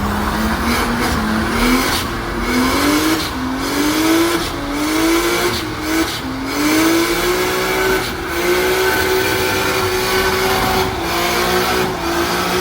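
A car engine revved hard, its pitch climbing, falling back and climbing again several times, as in hard acceleration or drifting, with some tire noise.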